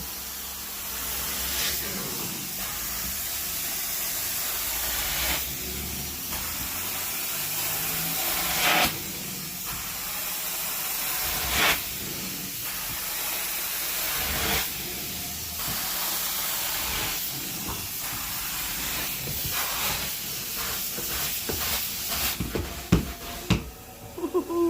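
Carpet-cleaning wand hissing steadily as it sprays and extracts, swelling in slow passes about every three seconds, with a few sharp knocks near the end.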